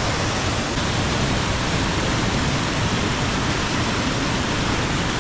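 Steady rush of fast-flowing water, loud and unbroken.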